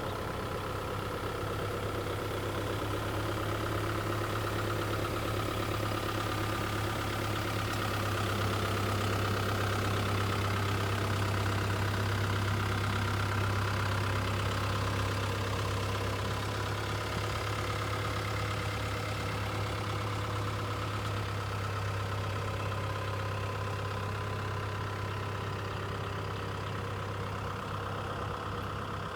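Caterpillar 305.5 mini excavator's diesel engine running steadily, a deep even drone that swells slightly in the middle.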